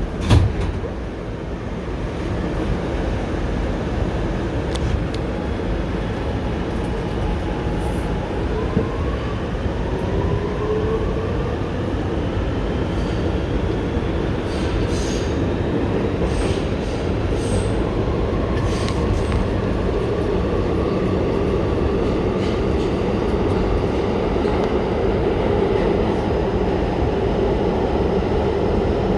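R211T subway car pulling out of the station: a thump as the doors shut, then the traction motors whine upward in pitch as the train accelerates over a steady rumble of wheels on rail. Brief high wheel squeaks and clicks come midway, and the train then runs on at speed.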